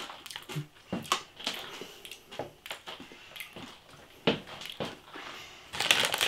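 Chewing crunchy jalapeño pork scratchings with the mouth, giving irregular crisp crunches and crackles, one sharper crunch about four seconds in.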